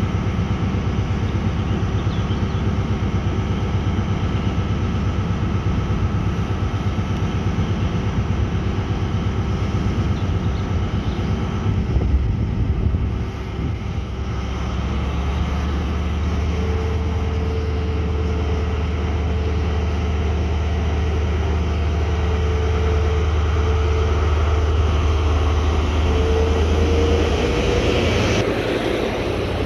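A train's engine running steadily close by. Its note changes about halfway through, then settles into a steady low hum.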